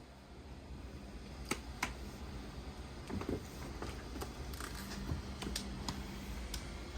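Quiet indoor room tone with a low hum and a scattering of faint, sharp clicks and taps.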